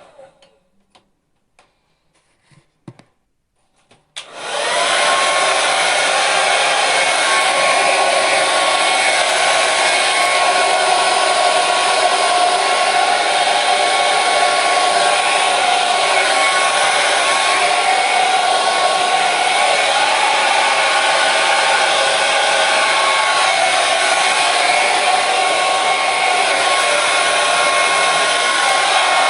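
Hair dryer winding down and cutting out, then a few seconds of near silence with a few faint clicks. About four seconds in it starts again, its whine rising as the motor spins up, and then runs steadily with a constant rushing blow and a faint high whine.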